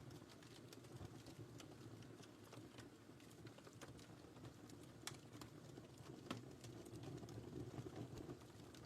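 Quiet wood fire crackling in a fireplace: a steady low rumble with scattered small crackles and two sharper pops about five and six seconds in.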